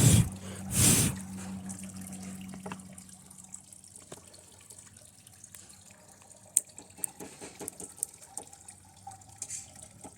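Sparking and sizzling as a lead-acid battery's high current is run into a TV circuit board: two short, loud hissing bursts in the first second, then a low hum that fades and scattered faint crackles.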